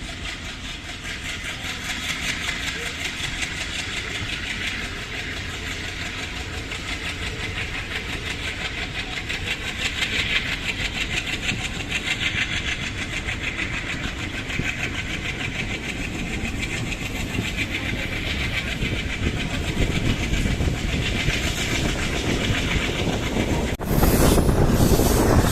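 Passenger train running along the track: a steady rolling rumble of wheels on rail that slowly grows louder. Near the end it abruptly gets louder, with wind buffeting the microphone.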